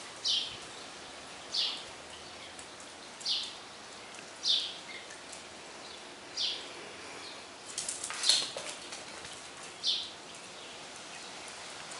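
A bird chirping repeatedly, one short high chirp every one to two seconds, with a quick run of sharp clicks a little after the middle.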